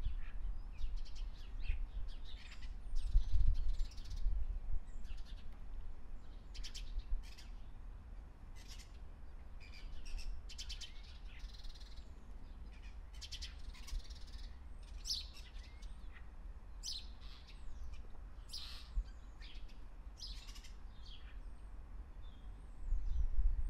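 Songbirds chirping and calling in the trees, many short high chirps scattered throughout, over a low steady rumble.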